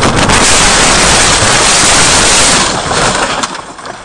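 A loud, distorted roar of noise on a dashcam's microphone during a car crash, overloading the recording, that dies away about three seconds in.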